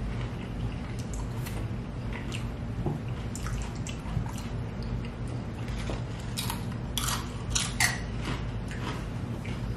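Close-up eating sounds: chewing with scattered short wet mouth clicks and crunches, a cluster of sharper ones about seven to eight seconds in, over a steady low hum.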